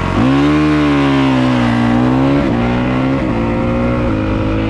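Dirt bike engine held at high revs as the clutch is slipped to the bite point for a launch. The engine note dips as the bike pulls away, climbs, then changes pitch in steps as the rider shifts up a few times in the second half.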